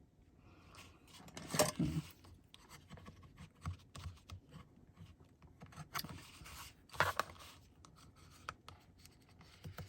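Paper and small craft supplies being handled on a tabletop: scattered scrapes, rustles and light clicks, louder about one and a half seconds in and again around six to seven seconds in.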